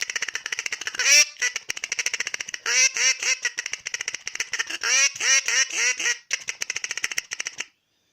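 Acme crow call blown as a duck call in a feed chatter: a rapid, fast-ticking chatter with short quacks mixed in, imitating ducks tucking into food. It stops suddenly near the end.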